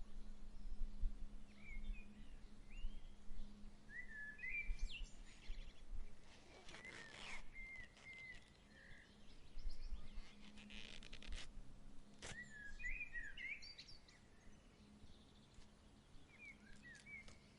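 Birds chirping in short, scattered phrases over a faint breeze and a low steady hum, with two brief rustles in the middle and a single sharp click about twelve seconds in.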